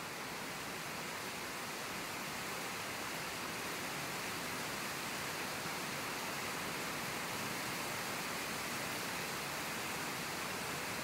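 Steady, even hiss with no distinct events, strongest in the upper-middle range.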